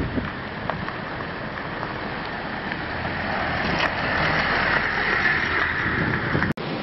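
Blizzard wind gusting and buffeting the microphone, a steady rush that builds louder about halfway through, then breaks off for an instant near the end.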